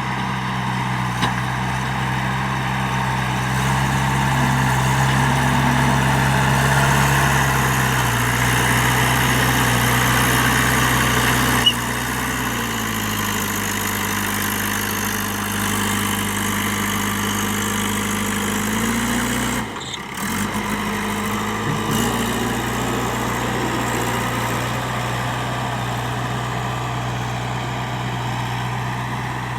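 JCB 3DX backhoe loader's diesel engine running under varying load, its pitch stepping up and down as the machine works. There is a brief break in the sound about two-thirds of the way through.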